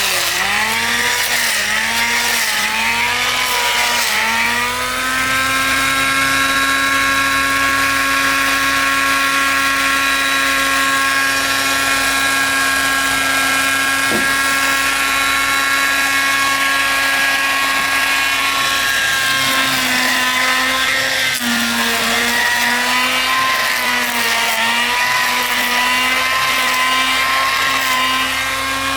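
Woodworking power tool's motor running at high speed, its pitch dipping briefly about once a second as it bogs under repeated load in the wood. For most of the middle it holds a steady pitch, then the dips come back near the end.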